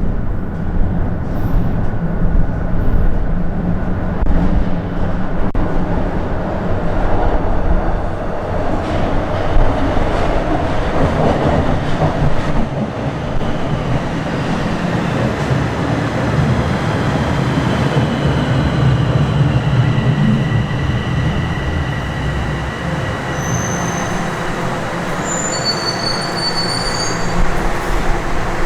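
Bombardier Toronto Rocket subway train running on the line, a steady rumble of wheels and motors on the rails. Through the last several seconds, high-pitched wheel squeals come and go over the rumble.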